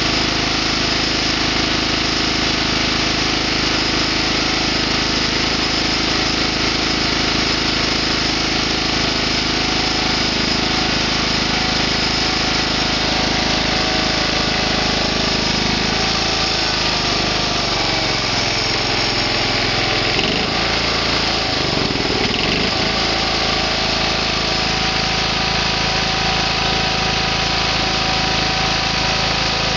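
Briggs & Stratton FC420V engine on a John Deere 175 lawn tractor, running steadily. About halfway through, its pitch sags and comes back up over a few seconds.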